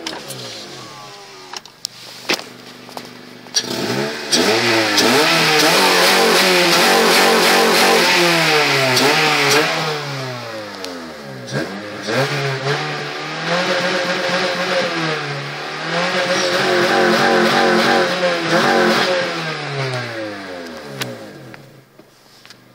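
2003 Acura RSX's stock K20A3 four-cylinder engine, fitted with a short ram intake and with a big exhaust leak, revved in place up to its stock rev limiter at about 5500 rpm. It bounces off the cut-off twice, each time for several seconds, and drops back toward idle between and near the end.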